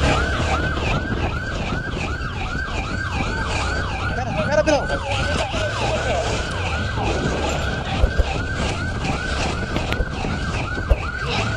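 Police car siren in fast yelp mode, a rapidly repeating rising wail at about two sweeps a second, over a low rumble.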